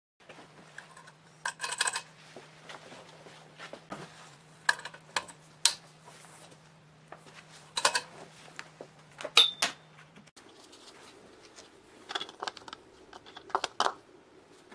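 Small metal parts and tools clinking and tapping in a series of sharp, irregular knocks, over a steady low hum that cuts off suddenly about two-thirds of the way through.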